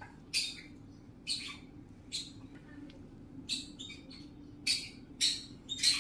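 Pet parrot giving a series of short, harsh, high-pitched squawks, roughly one a second, coming quicker and louder towards the end.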